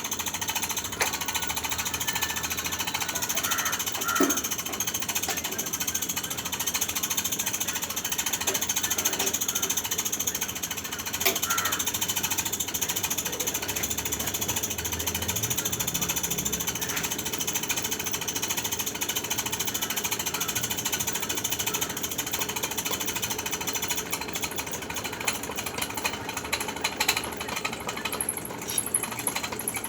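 Welding arc crackling and hissing steadily as a foundation bolt is welded, with a few small clicks and knocks in the first half.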